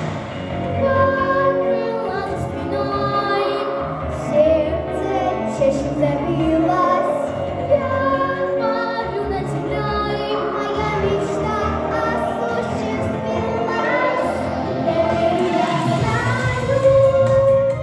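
Two young girls singing a pop song as a duet over instrumental accompaniment.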